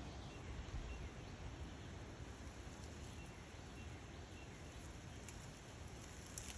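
Rural outdoor ambience: faint short bird chirps scattered every second or so over a steady low rumble.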